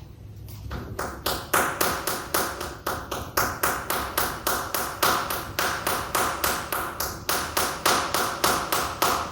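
Buttocks clapping together while twerking with the legs held together: rapid, regular skin slaps, about four a second, starting about a second in.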